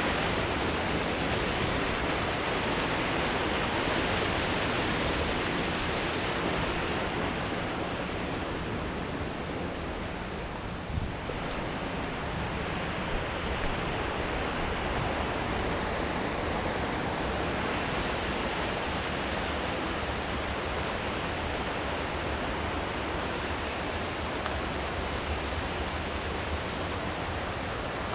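Steady rushing of river water pouring over a weir, dipping slightly in level about ten seconds in, with a single small knock.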